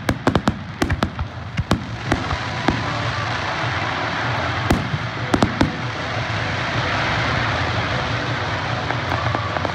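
Aerial firework shells bursting: a rapid volley of bangs in the first two seconds, thinning to a few scattered bangs around the middle, then a steady hiss of the display carrying on.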